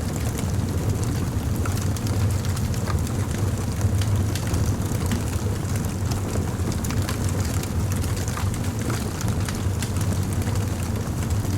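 Fire crackling: scattered sharp pops and snaps at an irregular pace over a steady low rumble.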